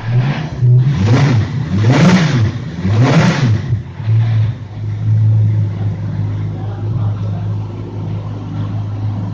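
Lamborghini Huracán GT3's naturally aspirated V10 idling, blipped three times in quick succession about a second apart, each rev rising and falling. It then settles back to a steady idle.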